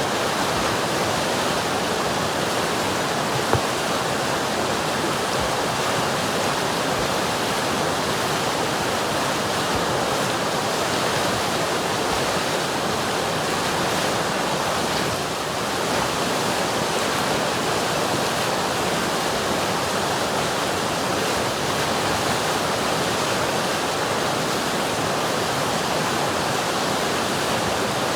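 River water rushing in an even, continuous stream, with one brief click about three and a half seconds in.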